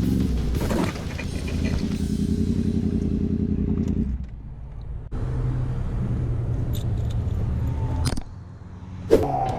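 Road-traffic sound, a motor vehicle engine running steadily. It drops away abruptly twice, at about four seconds and about eight seconds in, then returns.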